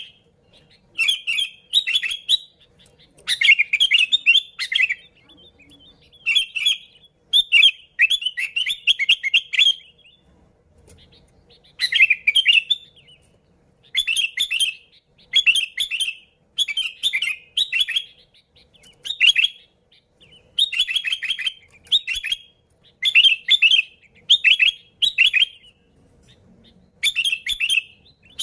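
Sooty-headed bulbul singing its lively chattering song: short phrases of quick bubbly notes, repeated every second or two with a brief break about a third of the way through.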